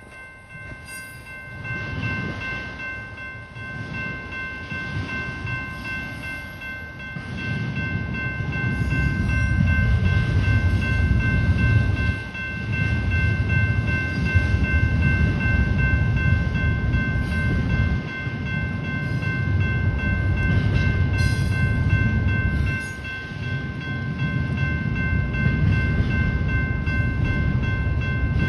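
Union Pacific double-stack intermodal freight train rolling past: the low rumble and clatter of the container cars on the rails, building over the first several seconds and then steady with brief dips. A steady high-pitched whine runs above it.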